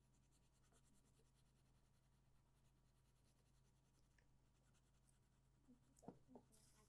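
Near silence with faint scratching of paper being worked by hand, and a couple of soft knocks about six seconds in.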